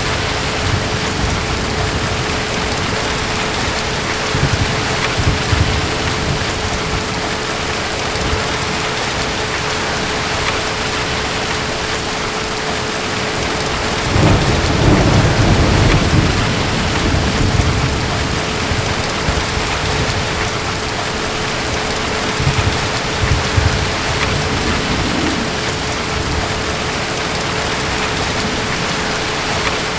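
Steady rain from a nighttime thunderstorm, with low rolling thunder rumbling at intervals; the loudest roll comes about halfway through.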